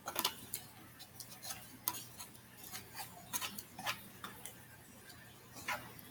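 Close-up mouth sounds of eating: chewing with irregular wet clicks and lip smacks, about a dozen over six seconds.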